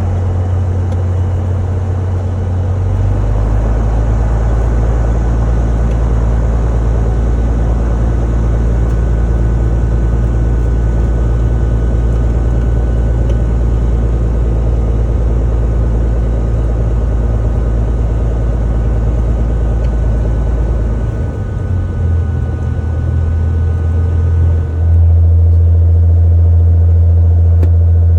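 A loud, steady engine drone, as heard from inside a running vehicle. Its low pitch shifts about three seconds in and again a little after twenty seconds, then holds steady and slightly louder.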